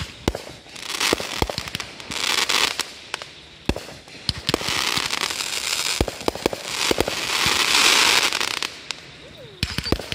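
Aerial fireworks going off: a string of sharp bangs and pops through the whole stretch, with several stretches of a second or two of crackling between them.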